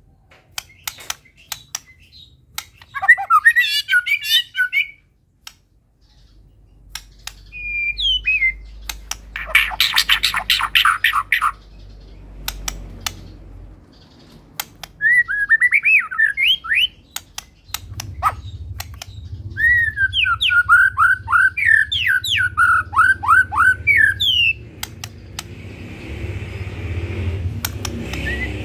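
White-rumped shama (murai batu) singing in separate bursts: quick gliding whistled notes, a fast rattling series, and scattered sharp clicks, over a low steady hum. The song is varied, full of mimicked phrases (isian).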